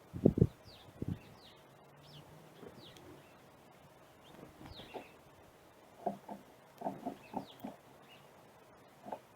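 Small birds giving short, high, falling chirps every second or so, with scattered soft knocks and taps, the loudest just after the start and a cluster of them around six to eight seconds in.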